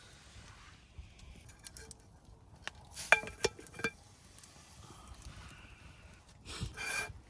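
Light clinks and taps of camp cookware and utensils, a cluster of ringing knocks about three seconds in, then a short scrape near the end.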